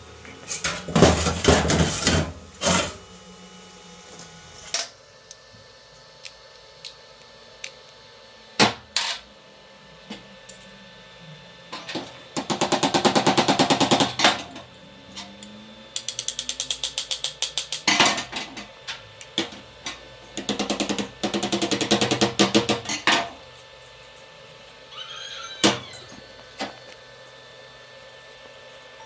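Workshop tool noises from building a belt sander. Scattered sharp knocks and clicks, and three spells of rapid, even rasping or buzzing, each lasting two to three seconds, in the middle stretch.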